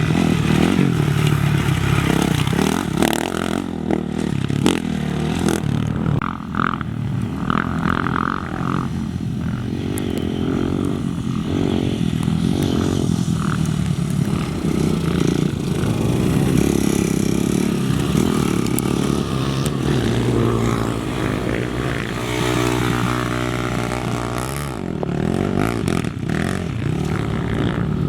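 Engines of off-road race machines running hard, revving and shifting in pitch as they go by.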